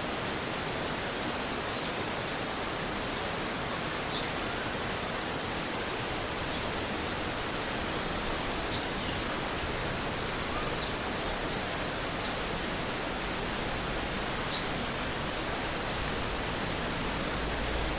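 Stream water rushing steadily, with a short high-pitched chirp repeating about every two seconds.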